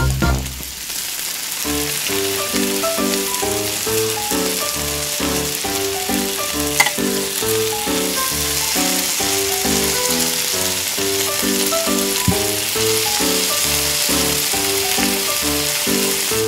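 Hot oil sizzling steadily as batter-coated fish pieces deep-fry in a miniature wok, with a short click about seven seconds in. A light melodic background music plays over it.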